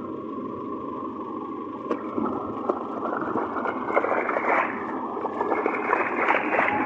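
Steady car-cabin hum, then from about two seconds in a rising rush and splash of floodwater thrown up by tyres driving through water on the road, getting louder toward the end.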